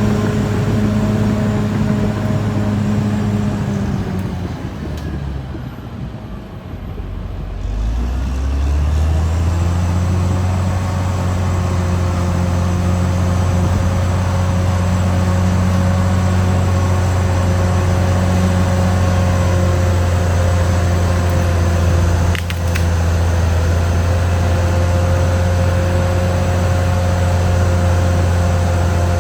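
Caterpillar D6R XL bulldozer's diesel engine running. Its note drops about four seconds in and climbs back to a steady pitch a few seconds later. There is one brief knock near the 22-second mark.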